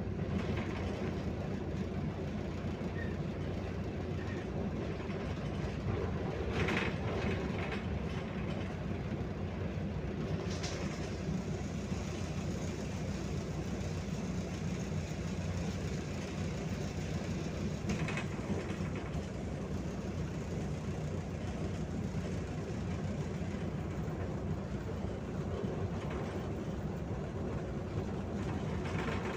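Cabin noise of a MAZ 105.065 city bus under way: a steady low engine and road rumble, with a few short rattles and knocks from the bodywork, the loudest about a third of the way in.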